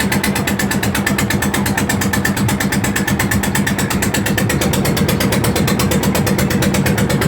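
Boat engine running steadily, with a fast, even pulse over a low hum.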